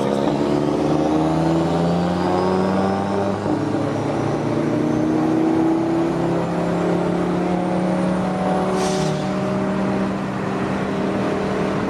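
Car engine running at a steady, moderate speed, its pitch drifting only slightly rather than revving hard, with a brief hiss about nine seconds in.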